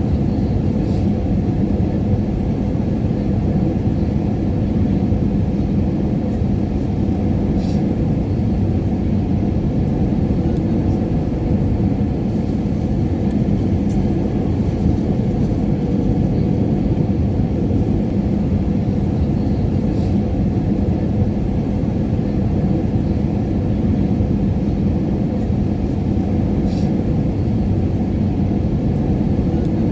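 Airliner cabin noise in flight: a steady low rumble of engines and rushing air with a constant hum, and a few faint ticks.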